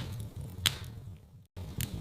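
Wood fire crackling in a fireplace: a low steady rumble with sharp pops, the loudest about two-thirds of a second in. About a second and a half in, the sound dips away to silence for an instant, then comes back.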